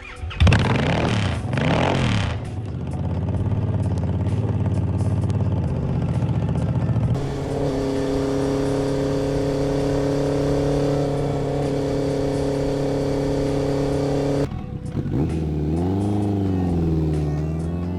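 Motorcycle engines heard across several abrupt cuts: revved up and down at first, then running steadily, then revved up and down again near the end.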